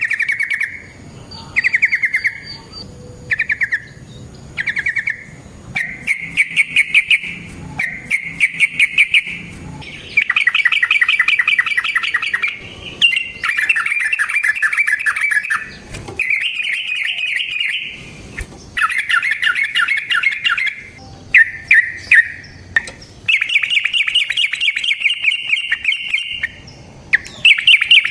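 Yellow-vented bulbul (trucukan) singing in rapid chattering trills. There are short phrases about once a second at first, then from about six seconds in, long trills follow one after another.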